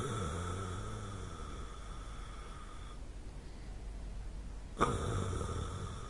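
A person snoring. A snore already under way dies away within about a second and a half, and another begins abruptly about five seconds in.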